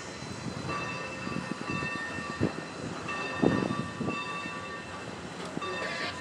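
Train rolling on the rails, with irregular clunks from the wheels and rail joints and a thin high squeal that comes and goes.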